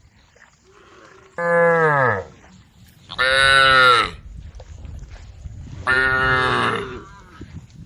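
Cows mooing: three separate moos, each about a second long, a couple of seconds apart; the first one falls in pitch as it ends.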